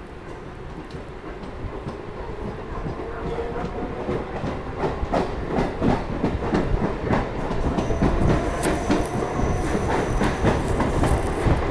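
Chennai suburban EMU local train pulling out of a station and picking up speed: wheels clattering over the rail joints, the clicks growing louder and more frequent.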